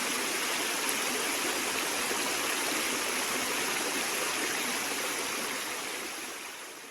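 Water of a small forest waterfall and stream rushing steadily, fading out near the end.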